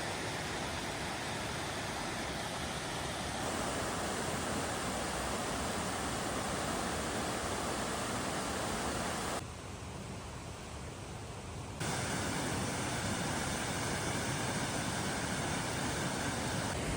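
Steady rushing noise across all pitches, changing abruptly a few times as one clip cuts to the next, with one quieter, duller stretch about nine to twelve seconds in.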